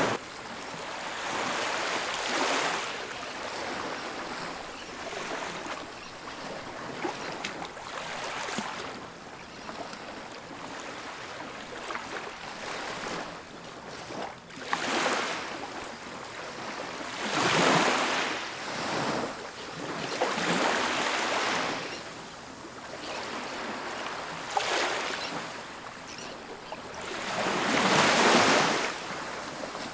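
Ocean surf breaking and washing onto a beach: a steady hiss of water that swells and ebbs every few seconds as each wave comes in, with the biggest breaks about two-thirds of the way through and near the end.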